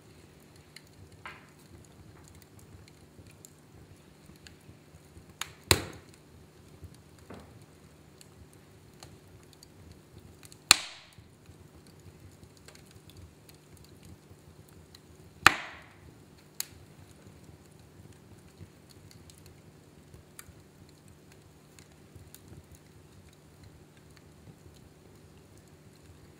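Wood fire burning in a fireplace: a low steady burn broken by a few sharp pops and snaps, three of them loud and spaced about five seconds apart.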